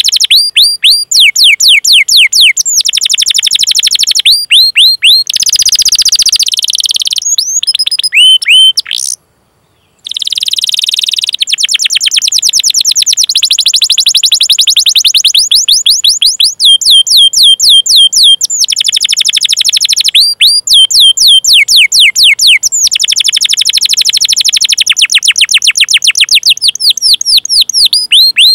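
Domestic canary singing: long runs of rapid, high, downward-sweeping 'cuit cuit' notes and fast rolling trills, with a brief pause about nine seconds in.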